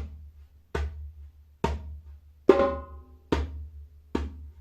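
Djembe played slowly by hand: single strokes about one a second, three medium strokes, then a ringing high stroke about two and a half seconds in, then two more medium strokes. This is the middle of the rhythm bass, medium, medium, medium, high, medium, medium, medium played once at slow speed.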